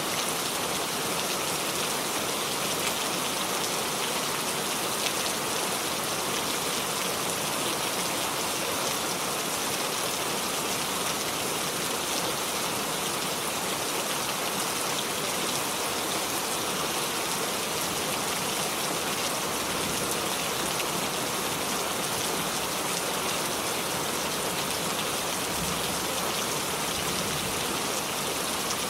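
Steady rain falling, a dense even hiss of drops on surfaces with fine patter of individual drops, constant in strength.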